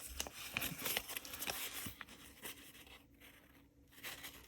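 Paper and packaging rustling as it is handled, with light clicks and taps, dying down after about two seconds to a few faint clicks.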